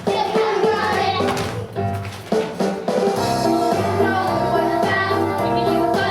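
Children singing a stage-musical number with instrumental accompaniment and a steady beat.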